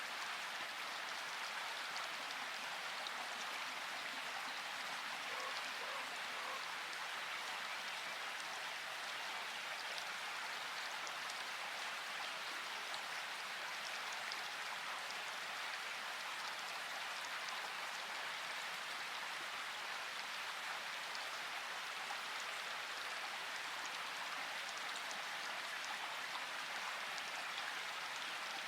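Steady rain falling, an even hiss of drops with faint scattered patters of individual drops.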